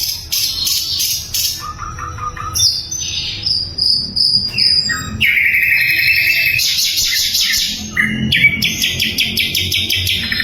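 Sikatan londo flycatcher singing loudly: fast strings of sharp repeated notes, short whistles and buzzy rattling trills following one another without a break.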